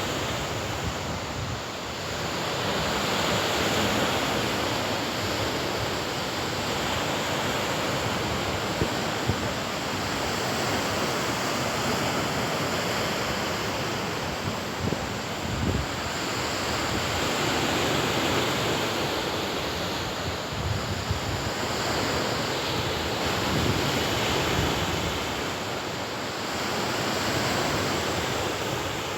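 Baltic Sea surf washing onto a sandy beach, a steady rush that swells and ebbs every few seconds as waves break.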